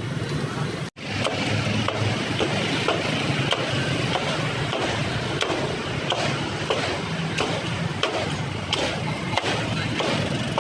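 Busy street ambience: steady traffic noise with scattered sharp clicks and knocks, briefly cut out about a second in.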